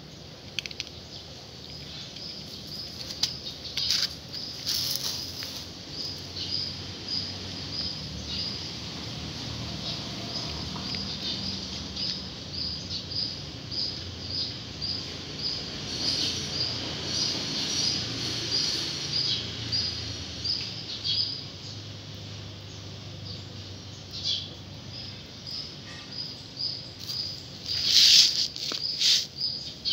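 A bird calling with a short high chirp over and over, about two a second, while short clicks and knocks come and go, loudest near the end.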